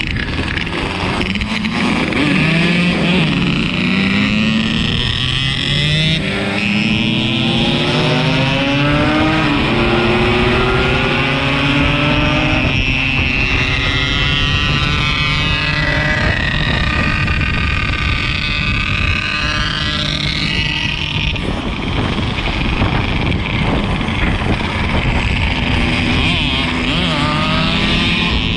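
Yamaha RX-King 135's single-cylinder two-stroke engine under way on the road, its pitch climbing as it accelerates and dropping at each gear change, then rising again near the end. Steady wind and road rush underneath.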